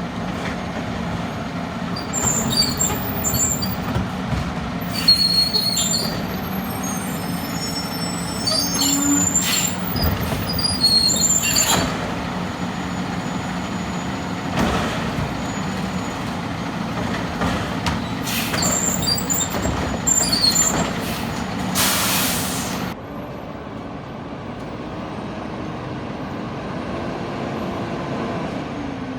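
Peterbilt 320 garbage truck with a Labrie Automizer body, its diesel engine running steadily. Short air hisses and high squeals come again and again over it, ending in a longer air hiss about twenty-two seconds in; after that the engine runs on more quietly.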